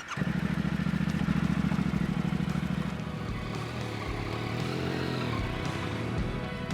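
Motorcycle engine running, coming in suddenly and loudly with a fast, even firing pulse; its pitch dips and rises again a few seconds in.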